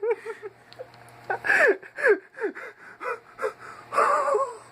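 A person laughing hard and gasping for breath, with short high squeals that fall in pitch and a wavering wheeze near the end.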